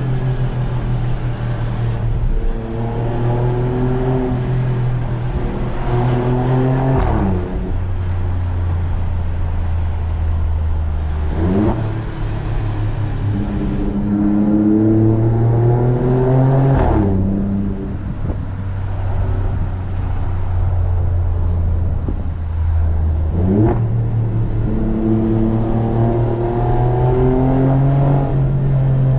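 Alfa Romeo Stelvio Quadrifoglio's twin-turbo V6 engine and exhaust pulling hard and easing off through the gears. The revs climb and drop repeatedly, with four sharp rev spikes at the shifts.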